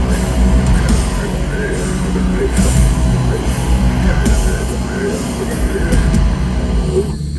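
A live heavy rock band playing loud, with distorted guitars, pounding drums and yelled vocals. The music cuts off abruptly near the end.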